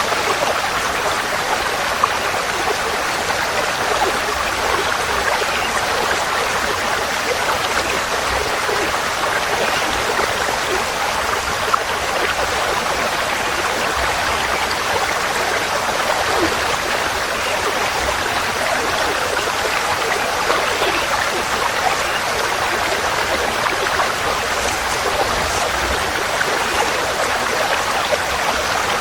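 A forest stream flowing steadily: an even, continuous rush of water.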